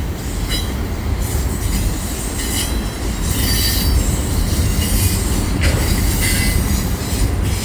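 Freight train's auto-rack cars rolling through a curve: a steady heavy rumble of steel wheels on rail, with high wheel squeal coming and going as the flanges grind on the curved track.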